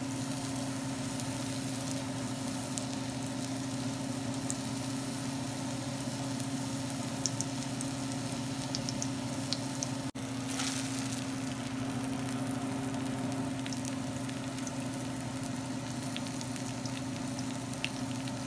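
Egg-battered eggplant (tortang talong) sizzling in hot oil in a frying pan, a steady hiss with small scattered pops, over a steady low hum. A momentary dropout about halfway through is followed by a brief louder burst of sizzle.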